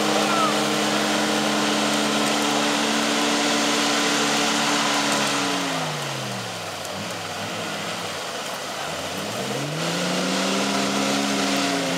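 Off-road 4x4's engine holding steady revs, then running down to a low idle about six seconds in and revving back up near the ten-second mark, as the vehicle crawls through deep mud ruts.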